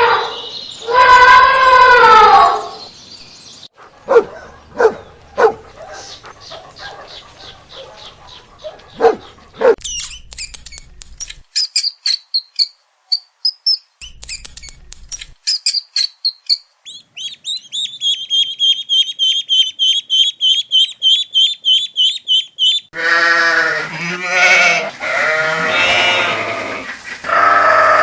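A string of different animal calls. Near the start there is one drawn-out pitched call, then a series of short separate calls. After that come high bird chirps and a long fast bird trill, and near the end several more drawn-out pitched calls.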